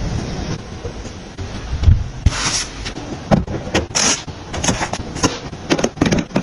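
Containers and packaged items being handled and set down: irregular taps, clicks and knocks, with a few short rustles.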